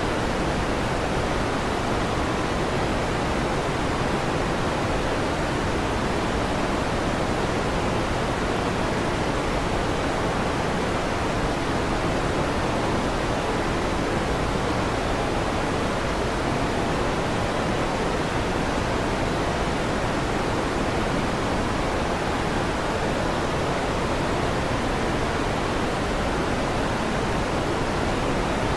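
Electric fan running, a steady, unchanging whooshing noise.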